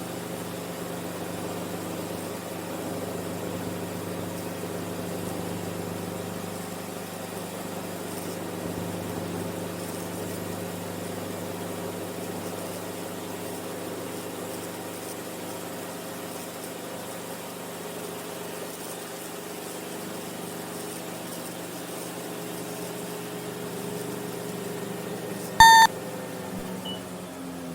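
Enstrom F28F helicopter's piston engine and rotor running steadily, heard from inside the cabin. About three-quarters of the way through, a single short, loud beep sounds.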